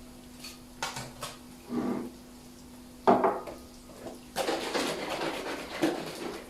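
Kitchen dishes and cutlery clattering: a few light clicks, a sharp knock about three seconds in, then about two seconds of scraping. A steady low hum runs underneath.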